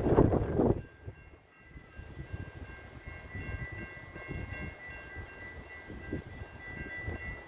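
Metrolink commuter train running: a loud rumble that falls away about a second in, leaving a quieter steady rumble with a thin high ringing tone held throughout.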